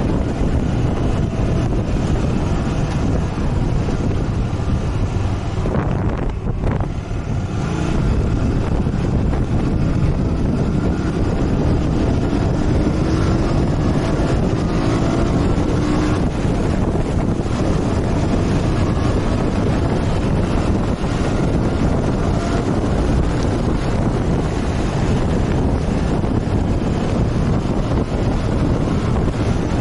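Motorcycle ride: wind rushing over the microphone, with the engine running underneath. The engine note rises for a few seconds around the middle.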